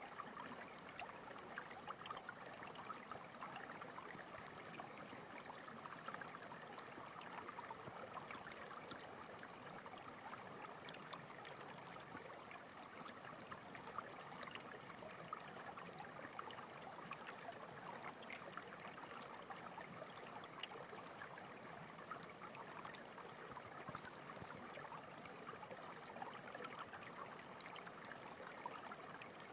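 Clear stream water running steadily over stones, a constant trickling with many small splashes and drips.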